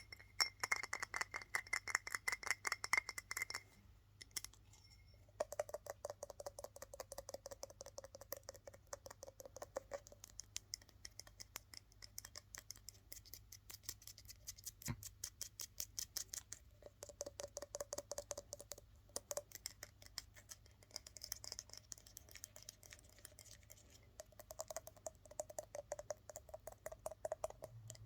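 Rapid, fast tapping and scratching with fingernails on assorted hard objects. Each run of taps sets the object ringing faintly; the ring is higher-pitched for the first few seconds and lower after a short pause about four seconds in, as a different item is tapped.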